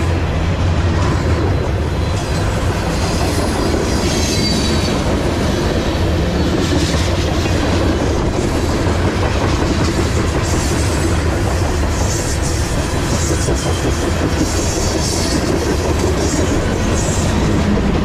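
Loaded freight cars of a manifest train rolling past close by: a steady heavy rumble with wheel clatter on the rails, and now and then a faint high squeal from the wheels.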